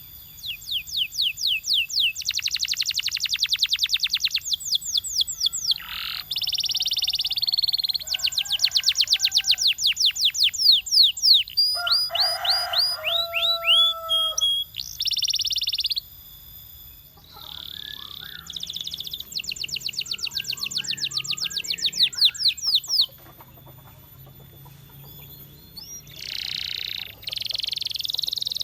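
Canary singing in phrases of fast trills, each trill a quick run of repeated high sweeping notes lasting a few seconds. The phrases are split by short pauses, and a lower, slower passage comes in about midway.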